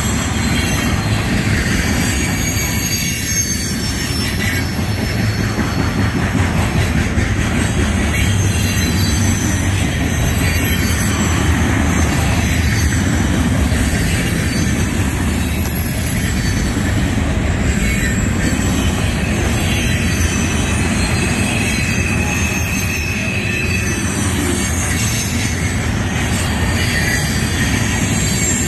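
Freight cars of a loaded trash train rolling past at speed: a steady rumble of steel wheels on rail, with thin high-pitched squeals from the wheels coming and going.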